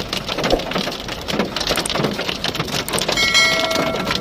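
Heavy rain falling, a dense patter of drops striking surfaces at a steady level. About three seconds in, a steady high tone with overtones sounds over it for about a second and then stops.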